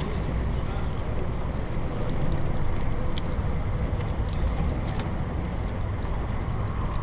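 Steady low rumble of a boat under way, with wind buffeting the microphone, and a couple of faint clicks about three and five seconds in.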